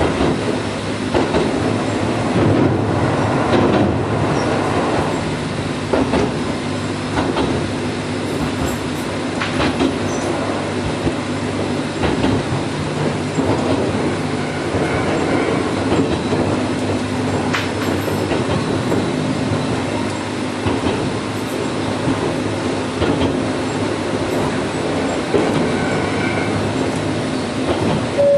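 Gakunan Railway 7000-series electric railcar running along the line, heard from inside its cab: a steady rumble of wheels on rail with a low motor hum and scattered clicks over rail joints. A faint high wheel squeal comes in twice, about halfway through and near the end.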